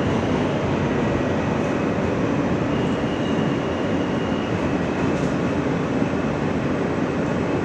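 R160 subway car running along the track, heard from inside the car: a steady rumble of wheels and running gear with a faint high whine over it.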